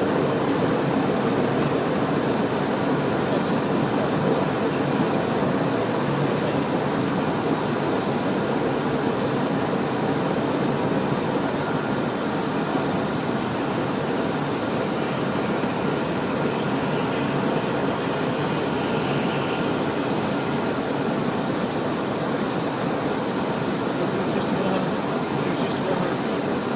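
Steady cockpit noise of a Cessna Citation Encore business jet in flight: the even rush of airflow and the hum of its twin turbofan engines.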